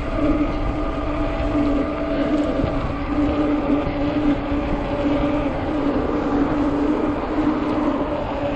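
Ecotric 48V fat-tire e-bike riding along, giving a steady whining hum from its drive and tires. Strong wind buffets the microphone underneath.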